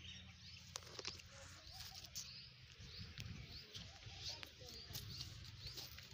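Quiet outdoor ambience: small birds chirping faintly now and then over a low steady hum, with a few soft clicks.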